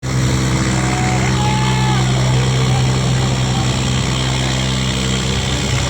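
Tractor's diesel engine running steadily, its pitch holding even.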